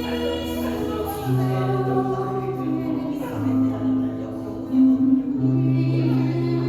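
A woman singing a slow ballad over accompaniment, with long held low notes that change every couple of seconds.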